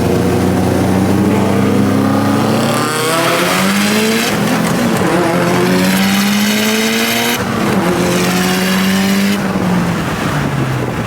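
Car engine accelerating hard at racing pace. The revs climb, drop at a gear shift about four seconds in, climb again, shift again about seven seconds in, then hold and ease off near the end.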